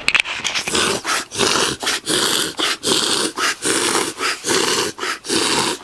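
Golden Labrador's snorkeling sneeze fit: a long run of harsh, noisy breaths in quick succession, about two a second. It is a symptom of the illness she is being treated for.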